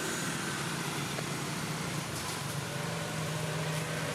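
A vehicle engine running steadily with a low hum over constant background noise.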